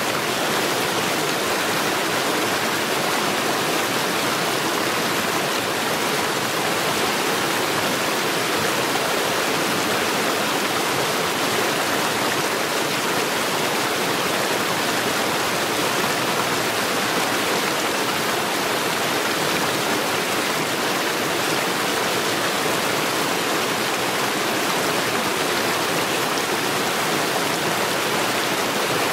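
Mountain stream rushing steadily over stones, a dense even splashing.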